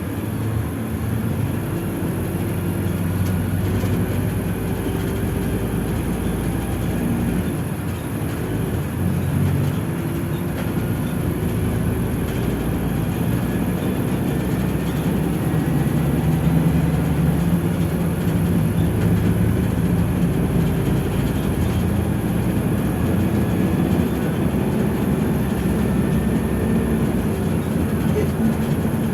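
Inside a PAZ-422320 Citymax 9 city bus on the move: the engine's low drone rising and falling in pitch as the bus changes speed, over steady road and cabin noise. It gets a little louder about halfway through.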